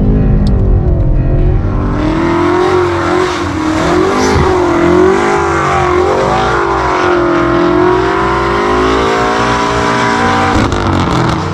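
BMW M8 Gran Coupe's twin-turbo V8 engine running under changing revs, its pitch rising and falling repeatedly, then holding steadier for a few seconds before it changes near the end.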